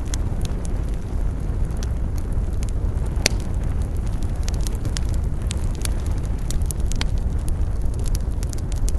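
Campfire burning, with frequent crackles and pops over a steady low rumble, one sharper pop about three seconds in.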